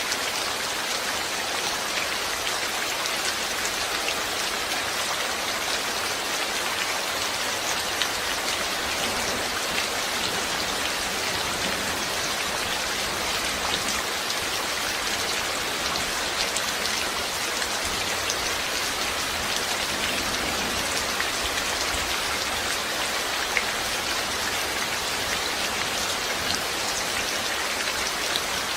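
Steady rain falling, with scattered drops ticking on a surface, at an even level.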